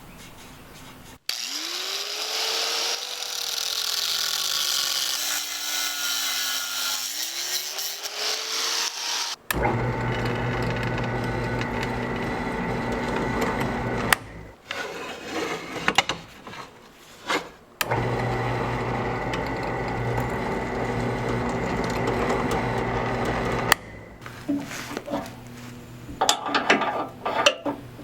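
Workshop power tools heard in short edited cuts: first one whose pitch rises, dips and rises again, then a steady motor hum, and scattered clicks and knocks near the end.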